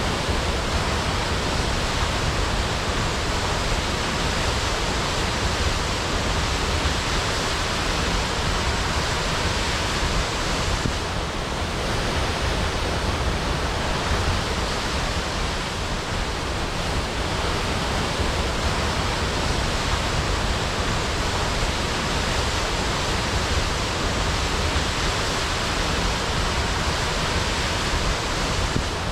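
Waterfall crashing: a steady, even rush of falling water, unchanging throughout.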